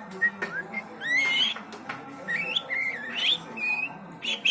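Juvenile white-rumped shama singing: short whistled phrases of notes that glide up and down, with a few sharp clicks between them.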